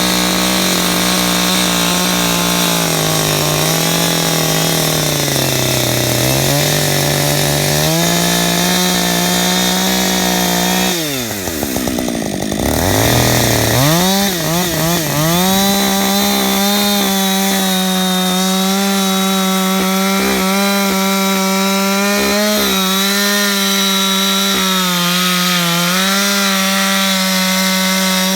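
Gas chainsaw cutting into a hardwood stump, its engine pitch sagging and recovering under the load of the cut. About eleven seconds in the engine drops sharply toward idle, then revs back up and holds a high, steady pitch.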